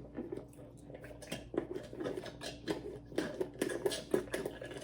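Close-miked mouth sounds of a person chewing food: irregular wet smacks and clicks, several a second.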